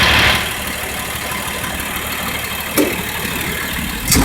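Yard truck's diesel engine running with a steady low rumble. A loud hiss cuts off about half a second in, and there is a sharp click later and a louder knock near the end.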